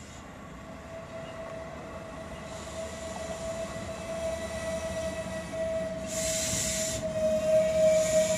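Hellenic Train MAN diesel railcar coming into the station, its running sound growing steadily louder as it nears, with a steady high whine held throughout. A short burst of hiss comes about six seconds in.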